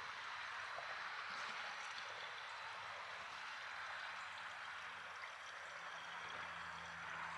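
E98 ethanol fuel flowing steadily into a car's fuel tank as it nears full. A low steady hum comes in near the end.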